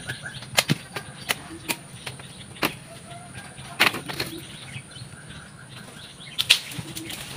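Several sharp cracks and swishes at irregular intervals, the sound of broken branches and leafy twigs on the pepper-vine supports being cut and cleared away.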